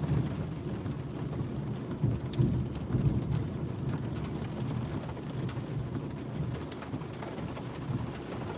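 Heavy monsoon rain falling, with many scattered drops ticking close by. A steady low rumble runs underneath, swelling a little a few seconds in.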